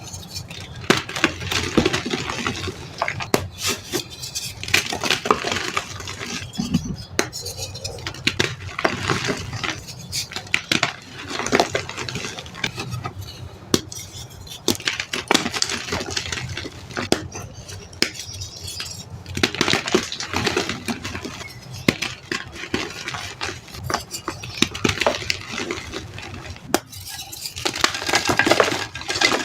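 Blocks of reformed gym chalk being crushed and crumbled, a dense crunching and crackling full of sharp clicks that comes in waves. A short pause comes near the end, then another burst of crunching.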